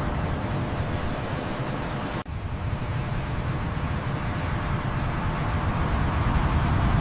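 Steady airliner cabin noise: a low rumble of engines and airflow with an even hiss over it and a faint steady hum. It drops out abruptly for an instant about two seconds in, then carries on.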